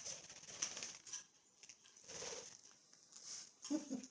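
Pet budgerigars taking treats from the hand: faint scattered chirps, beak clicks and rustling.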